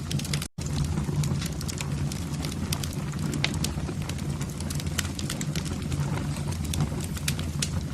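Wood fire burning in a fireplace: a steady low rumble of flames with frequent sharp crackles and pops. The sound cuts out completely for a split second about half a second in.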